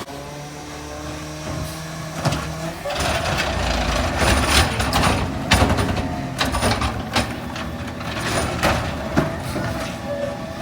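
Rear-loader garbage truck working: the engine runs steadily, and from about three seconds in a rapid series of metal clanks and bangs comes from the loading end.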